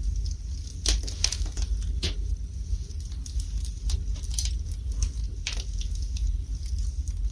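Fire burning in a fireplace: irregular crackles and sharp pops over a steady low rumble of the flames. The louder pops come about a second in, around two seconds in and again near five and a half seconds.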